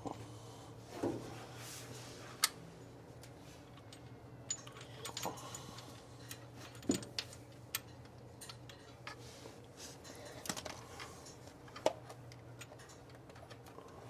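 Scattered light metallic clicks and clinks of hand tools and parts while a distributor and its hold-down clamp are being fitted, irregular and of varying strength, over a steady low hum.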